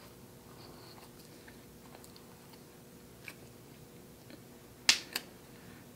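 A person chewing a mouthful of doughnut close to the microphone: faint, scattered wet mouth clicks, with two sharper clicks close together about five seconds in.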